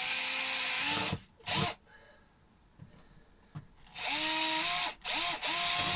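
Power drill boring holes into a camper's plywood-and-polystyrene floor, run in four bursts: a long one at the start, a short blip, then two more near the end, the motor's pitch rising as each burst starts. The holes are for injecting adhesive into the delaminated floor layers.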